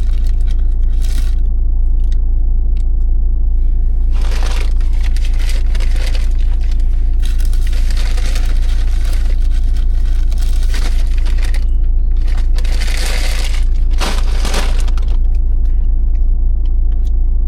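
Paper takeaway bag and food packaging rustling and crinkling in several bursts, over the steady low rumble of a vehicle cabin.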